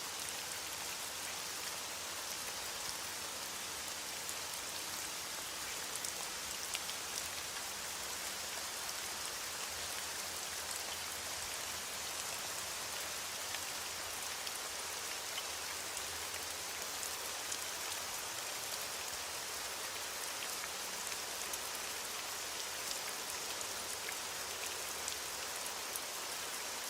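Steady rain falling, a constant hiss of many fine drops with scattered louder drop ticks.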